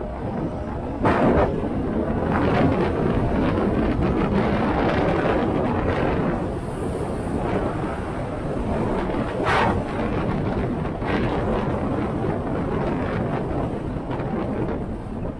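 Wind rushing over the microphone on a moving motorcycle, with engine and road noise underneath and a couple of louder gusts.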